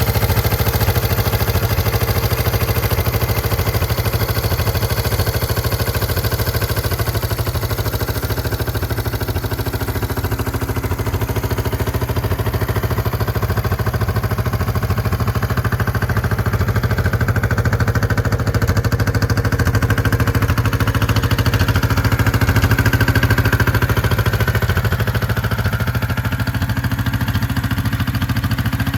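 The restored 1972 Honda CL350's air-cooled parallel-twin engine running steadily, with an even firing beat.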